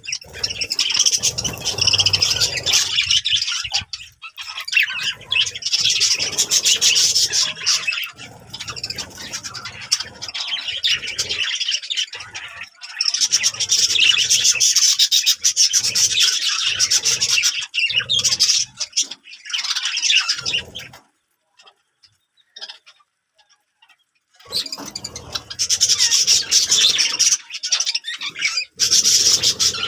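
A flock of budgerigars chattering and squawking in long stretches of dense, high-pitched calls, broken by about three seconds of near silence past the middle.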